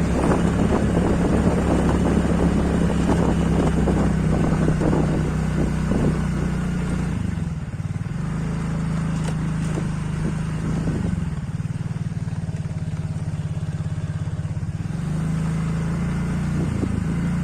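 Motorcycle engine running under way, its note dipping and picking back up a few times as the speed changes, with rushing wind noise over it for the first half.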